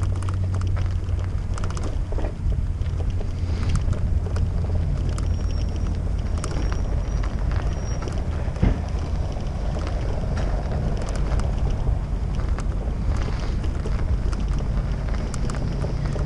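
Wind buffeting the microphone as a steady low rumble, with scattered light clicks and rattles.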